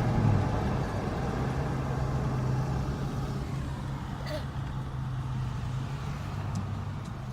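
Car engine humming steadily over road noise, slowly getting quieter.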